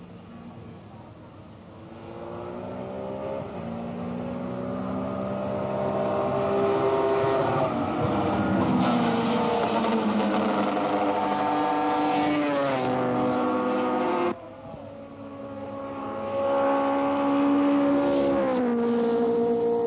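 Racing superbike engines at high revs, the sound building as the bikes come closer and climbing in pitch through the gears. The pitch falls about two-thirds through, the sound cuts off abruptly, then another engine builds up and its pitch falls near the end.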